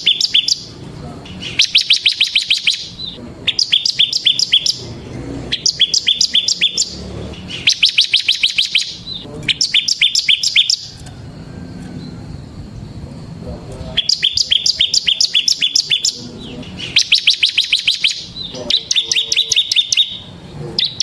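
Bar-winged prinia (ciblek) singing its rapid drilling trill: bursts of quick, high, evenly repeated notes, each about a second long, coming every couple of seconds, with a pause of about three seconds midway.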